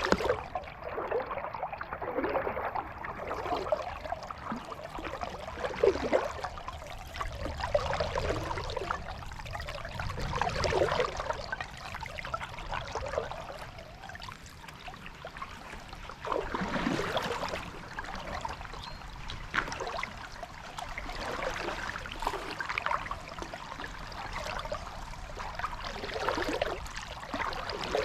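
Kayak paddle dipping and pulling through lake water, a splashing, dripping stroke every couple of seconds over steady water trickle.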